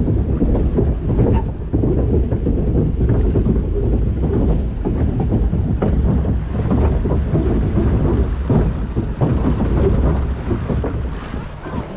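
Rushing, churning water of a river rapids ride around the raft, under heavy wind rumble on the microphone; the noise eases near the end.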